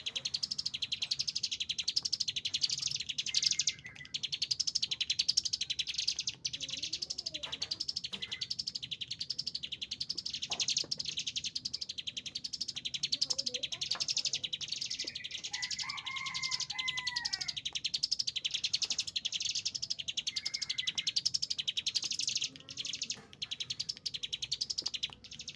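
Ciblek gunung (cigun) singing intensely in a continuous, high, rapid trill that ripples in a repeating pattern about twice a second, with brief breaks. Fainter, lower whistled calls come and go beneath it.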